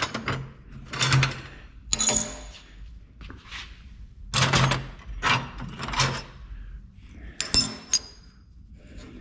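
Pieces of scrap steel, angle iron among them, clanking, scraping and ringing as they are shifted and pulled out of a junk pile. The knocks come irregularly, with the brightest metallic rings about two seconds in and again near eight seconds.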